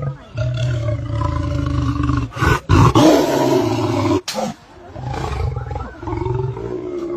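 Lion growling in low, drawn-out rumbles, with a loud, harsher roar about three seconds in that lasts a second and a half before the growling resumes.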